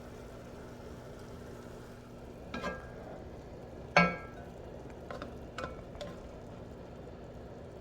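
Beef, potatoes and broccoli sizzling in a skillet while being stirred, with several short metallic clanks of the utensil against the pan; the loudest clank comes about four seconds in.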